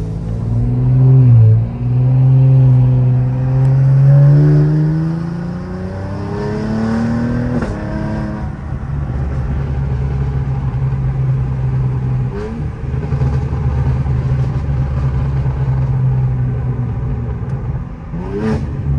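Cadillac CT4-V Blackwing's twin-turbo V6 with catless downpipes, heard from inside the cabin. It accelerates with a rising pitch, drops in pitch at gear changes about a second and a half in and again about eight seconds in, then settles into a steady low exhaust drone at cruise. Brief short rises in pitch come about twelve seconds in and near the end.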